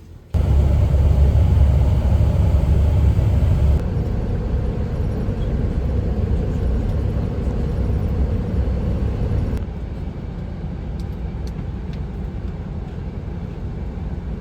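Steady low rumble of a bus's engine and road noise heard from inside the cabin. The level drops abruptly twice, a few seconds in and again later.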